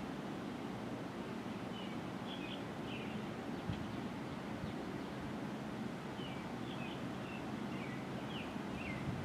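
Birds at a feeder giving short, high chirps, scattered and sometimes in quick little clusters, over a steady low background rumble.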